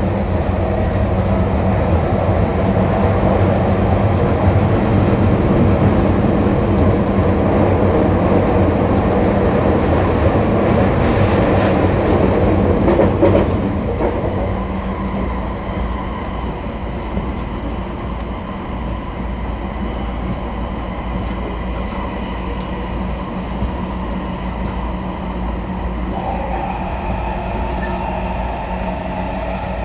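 Running noise inside an E231-series electric commuter train car at speed: the rumble of wheels on rail and the car's running gear. About 13 seconds in it drops a little quieter and smoother, and near the end a steady higher tone comes in over the rumble.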